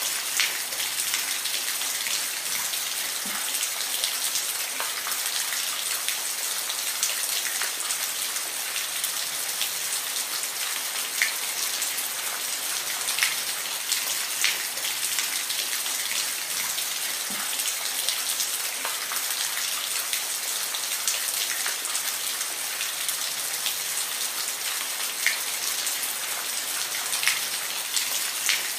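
Steady rain falling and pattering on a surface, a dense even hiss with scattered individual drops ticking louder.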